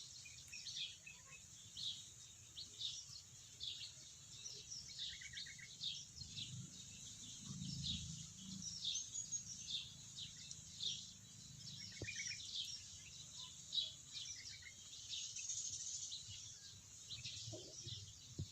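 Small birds chirping over and over in short high calls, with a few quick trills, over a faint low hum.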